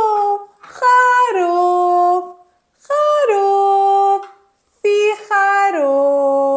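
A woman's voice singing a drawn-out 'baa' like a sheep's bleat, three times, each a held note that drops to a lower one.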